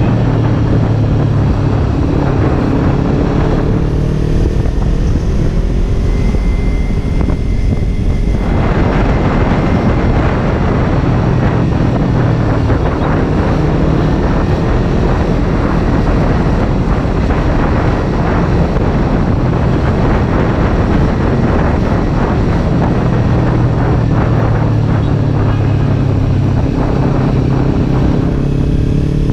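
Kawasaki Ninja 300's parallel-twin engine running while riding in traffic, its pitch rising and falling with the throttle, mixed with wind noise on the microphone.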